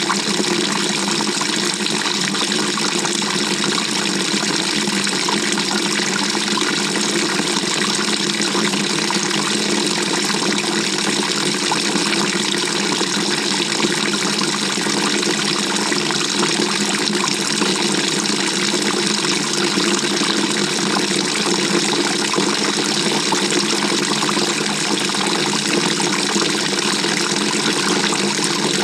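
Water running steadily inside the tub of a 2018 GE GTW220ACKWW top-load washing machine, heard from within the drum.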